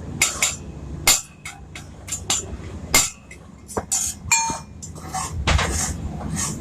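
Irregular metal knocks and clinks from tools and clutch-plate parts being worked and handled, about a dozen sharp strikes with one ringing clink a little after four seconds in.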